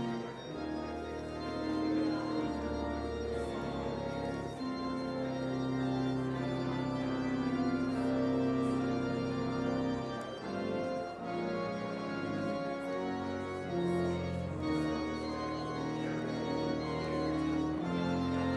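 Church organ playing slow, sustained chords over low held bass notes, the chords changing every few seconds.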